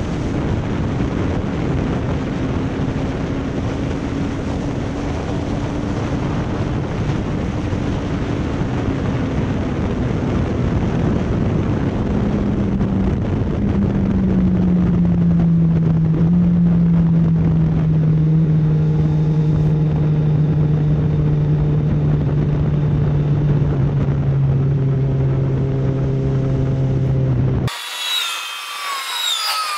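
Motorcycle on the move, engine note under heavy rushing noise; the engine pitch holds steady, then drops about halfway through and settles into a lower steady note. The sound cuts off abruptly near the end.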